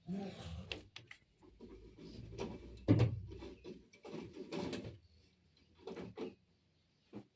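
Frogs calling down in a well: a string of short, irregular croaks with brief gaps between them, one louder call about three seconds in.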